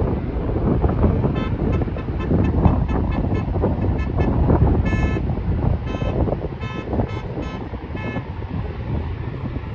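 Jet airliner engines running with a loud low rumble, mixed with wind buffeting the microphone. Over the rumble, a run of short high-pitched beeps sounds irregularly from about a second in until near the end.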